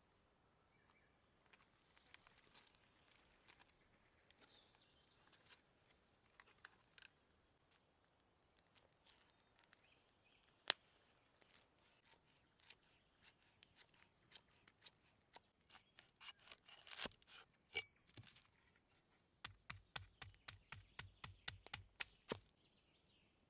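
Hand food-prep sounds: scattered light clicks and rustling, then near the end a quick, even run of about a dozen knife chops on a wooden cutting board, roughly four a second.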